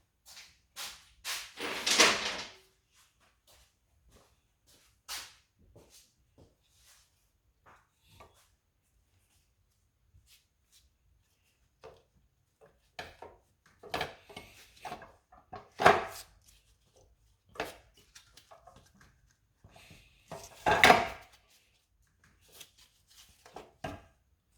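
Scattered clicks, clanks and knocks of hand tools and engine parts being handled during work on the engine, with quiet gaps between them; the loudest knocks come about two seconds in, about sixteen seconds in and about twenty-one seconds in.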